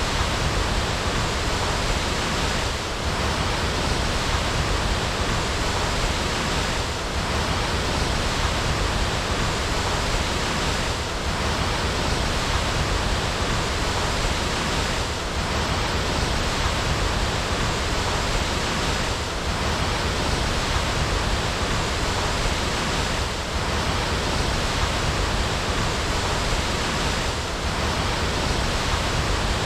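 Waterfall: a steady, full rush of falling water, with a faint swell about every four seconds.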